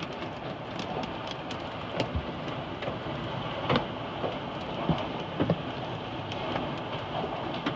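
Heavy rain beating steadily on a car, with many scattered sharp hits from hailstones striking the body and glass.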